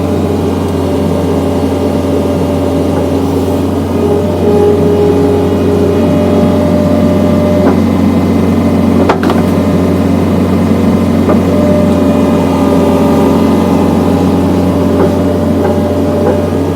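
John Deere skid steer's engine running steadily under load while it powers a hydraulic log splitter, with higher tones in its sound coming and going a few times. One sharp crack about nine seconds in.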